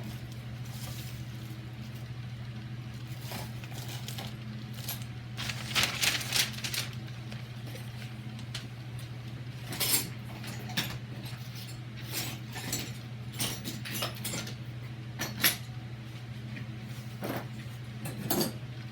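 Small metal door-lock parts, latch and deadbolt hardware, being handled and set down on a bench: irregular clinks and clatters, loudest about six, ten and fifteen seconds in, over a steady low hum.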